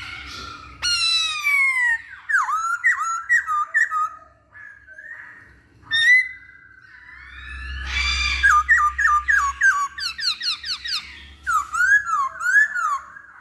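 Poksay Hongkong (masked laughingthrush) singing: loud bursts of whistled song made of sweeping glides and quickly repeated downslurred notes, with short pauses between phrases.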